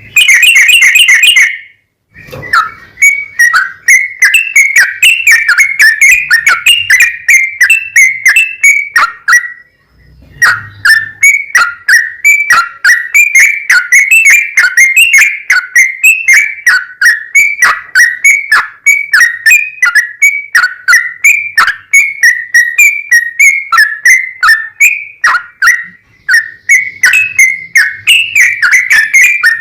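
Yellow-vented bulbul (trucukan) singing a long run of loud, rapid whistled notes, with short breaks about two seconds in and about ten seconds in.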